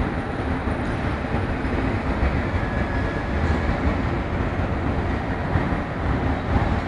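High-speed passenger train moving off from the platform, a quiet, steady low rumble with no clatter.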